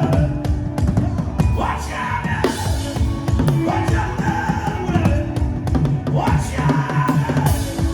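Loud drumming, with a voice singing three long phrases over the beat.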